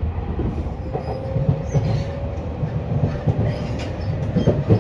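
Running noise of a Y500 series electric train heard inside the passenger car: a steady low rumble of wheels on rail with scattered clicks from the track, and a faint steady whine from about a second in until near the end.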